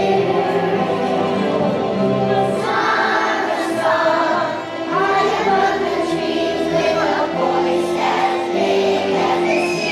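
A choir of young children singing a Christmas song over instrumental accompaniment.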